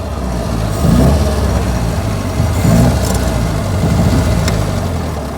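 1924 Austin Seven's small side-valve four-cylinder engine running at low speed, a steady low rumble.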